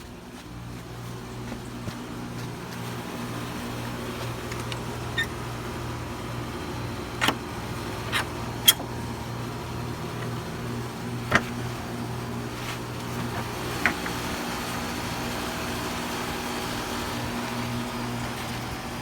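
Bryant heat pump outdoor units running: a steady compressor and fan hum that grows gradually louder over the first few seconds, then holds, with a handful of sharp clicks.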